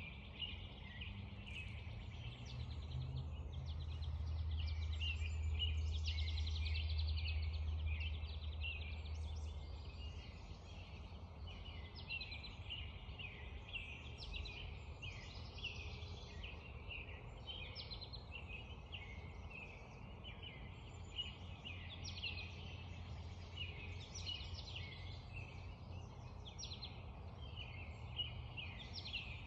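Dense dawn chorus of many birds calling and singing over one another, over a steady wash of creek water. A low rumble swells from about three seconds in and fades out by about ten seconds.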